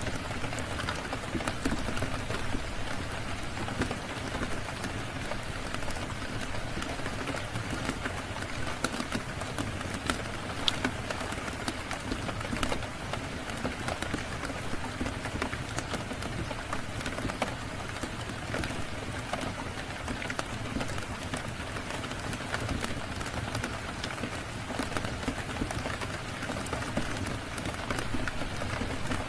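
Steady rain falling, with scattered sharp pops and crackles from a wood fire throughout.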